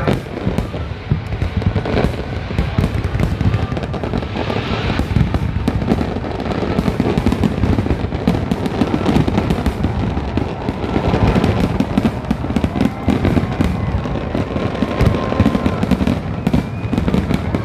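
Aerial fireworks going off in a dense, continuous barrage of booms and crackles, with no let-up.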